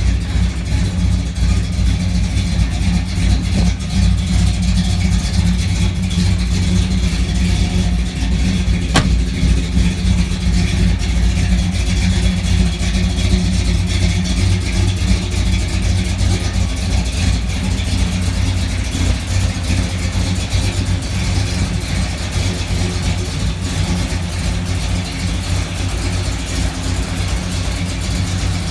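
A 1955 Chevrolet pickup truck's engine running steadily, with a single sharp click about nine seconds in.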